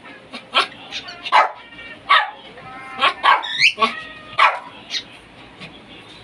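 A cockatiel whistling a curving, looping note about three seconds in, amid a string of short sharp bark-like calls every half-second to a second.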